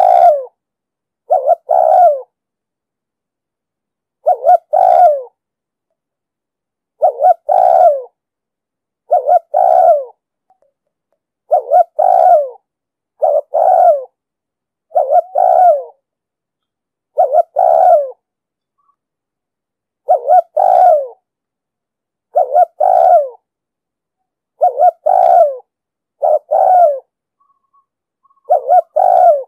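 Spotted dove cooing in short phrases of two or three deep coos, repeated about every two seconds with silence between: the rapid 'thúc gù' coo that trappers play to lure wild doves.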